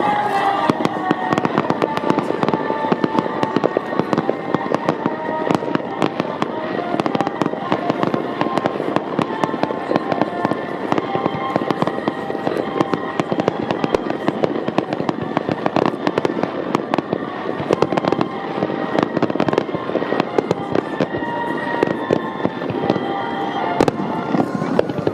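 Dense, continuous barrage of aerial fireworks shells bursting and crackling in rapid succession, typical of a grand finale, with music playing over loudspeakers underneath.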